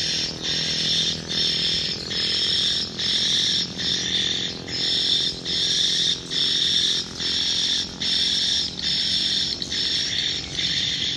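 Swiftlet calls: a dense, high chirping in short, even bursts of under a second each, repeating without a break.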